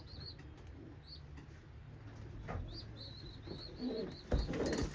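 Young pigeon squabs peeping in runs of short, high notes, with a low pigeon coo and a knock about four seconds in.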